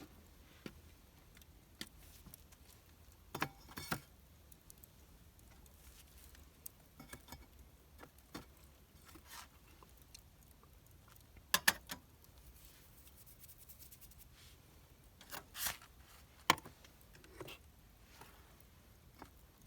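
A few scattered clinks and short rustles of small objects being handled, with quiet between them. The clearest fall about three and a half seconds in, near twelve seconds and around sixteen seconds.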